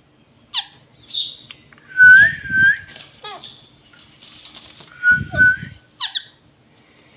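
Caged parrots calling: short chirps and squawks, quick downward-sweeping calls, and whistled notes that rise and fall. Twice, about two and five seconds in, the whistles come with a short flutter of wings.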